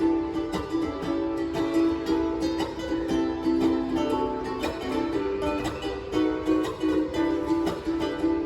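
Ukulele music played live: rhythmic strummed chords with a held melody line over them.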